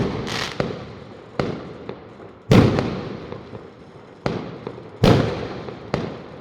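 Fireworks exploding close by: loud bangs at the start, about two and a half seconds in and about five seconds in, with smaller bangs between, each trailing off in an echo.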